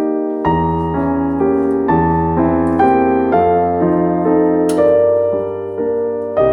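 Background piano music: a calm melody of single notes over held bass notes.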